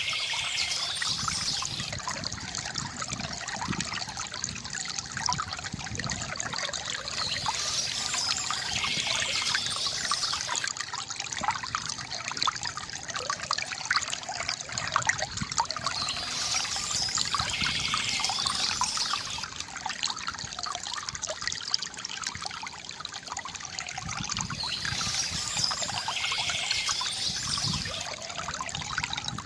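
Water from a bamboo fountain trickling and splashing steadily into a basin, with a brighter, higher wash returning about every nine seconds.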